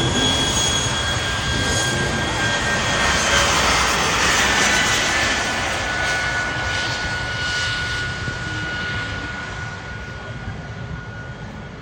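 NASCAR Craftsman Truck Series race trucks' V8 engines running at speed on the track, a steady loud drone with high tones that slowly sink in pitch, fading over the last few seconds.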